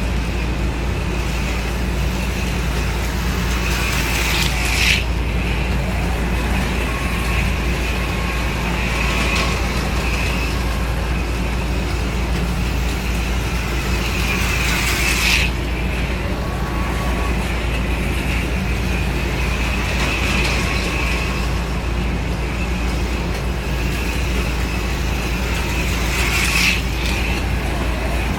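Small electric motors of HO-scale slot cars and a model train running on a layout: a steady whine over a low hum. It swells briefly three times, about every eleven seconds, as something passes close.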